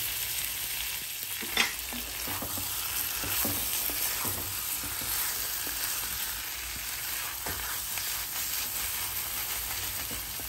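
Chicken pieces in a thick masala sizzling in a cast iron kadai while a spatula stirs them. The spatula's scrapes and knocks against the pan come through the steady sizzle, with one sharper knock about a second and a half in.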